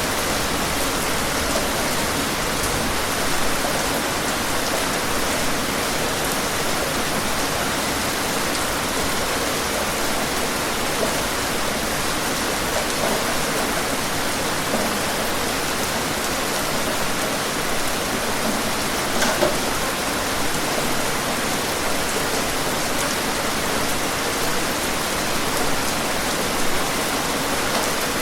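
Steady rain falling, a constant even hiss with occasional louder drops striking a surface.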